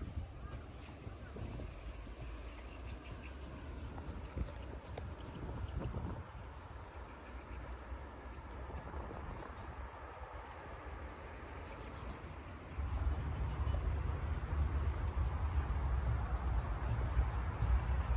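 Steady high-pitched insect drone, with a low rumble coming in suddenly about two-thirds of the way through.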